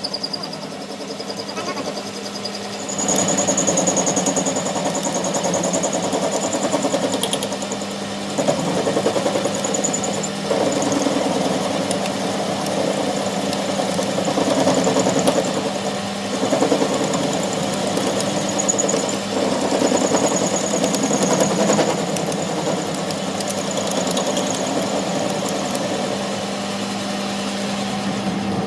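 A machine running steadily with a constant low hum, a rough grinding-like texture over it, and a thin high whine that comes and goes.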